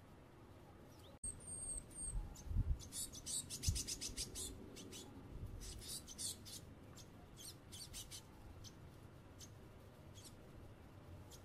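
Tits calling: a brief high thin note, then fast runs of short high notes for a few seconds, growing sparser, with a couple of low thumps near the start.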